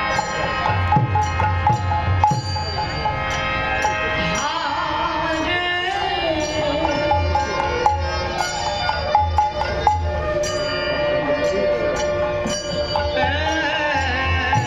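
Bengali kirtan music: sustained chords over steady low drum beats and crisp hand-cymbal clicks. A voice glides in about a third of the way through and again near the end.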